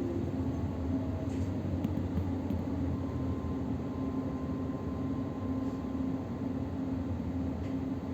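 Steady hum and rumble of an electric commuter train, heard from inside the carriage, with a faint high tone joining about three seconds in.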